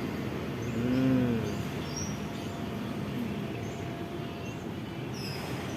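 Steady outdoor background noise with faint, scattered high bird chirps, and a short hummed voice sound rising and falling about a second in.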